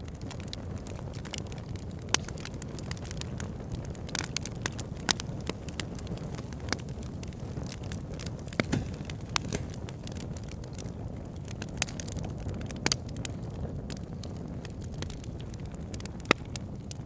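Wood fire burning in a fireplace: a steady low rumble under continual sharp crackles, with a louder pop or snap every few seconds.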